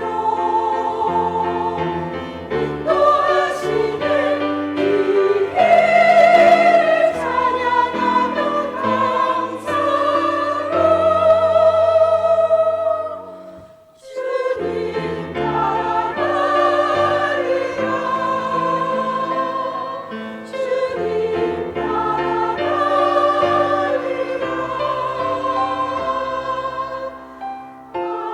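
Church choir singing an anthem in parts, with long held notes sung with vibrato. The singing breaks off for a moment about halfway through, then resumes.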